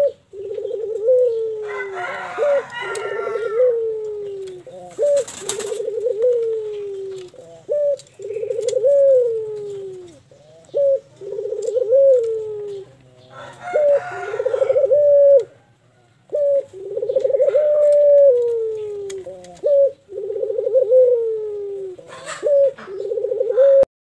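Ringneck dove (puter) cooing over and over: about ten rolling coos one after another, each lasting a second or two and dropping in pitch at its end.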